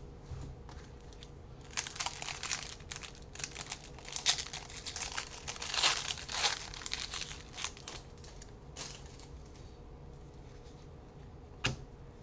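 A trading-card pack wrapper being torn open and crinkled, with a dense run of crinkling from about two seconds in to around seven seconds. Quieter handling follows, then a single sharp click near the end.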